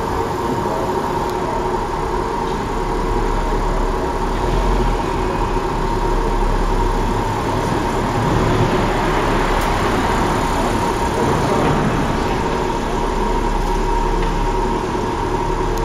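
Audi A7 engine idling, then running at crawling speed as the driverless car pulls out of its parking space and passes by. A steady hum runs underneath.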